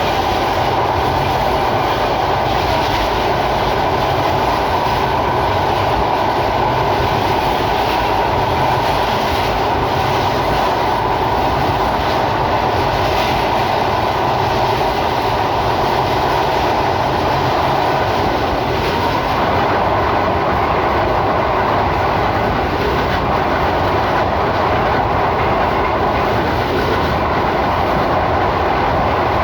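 Sundarban Express passenger train running along the track: a loud, steady rumble and rattle of the moving carriage and wheels on the rails.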